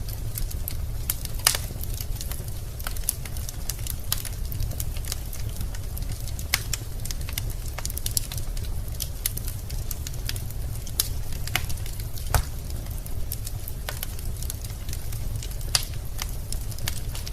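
Wood fire burning in a fireplace: logs crackling with irregular sharp pops, a few louder snaps, over a steady low rumble of the flames.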